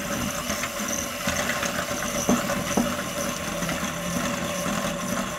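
Electric mixer running steadily, beating creamed butter and sugar to work in a freshly added egg, with a few sharp clicks about halfway through.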